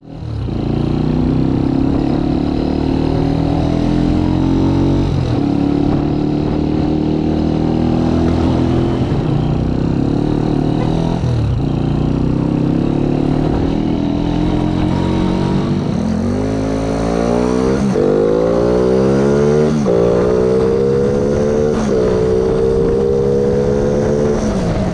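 Motorcycle engine pulling through the gears, its pitch climbing steadily and dropping sharply at each upshift. The shifts come slowly in the first half, then quickly in the second half.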